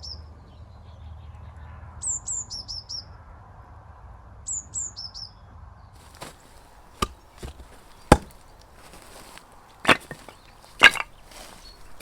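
Wood being chopped for a campfire: a series of sharp chopping knocks starting about halfway through, irregularly spaced, the loudest near the end. Before them a small bird calls in short, quick chirping phrases, twice.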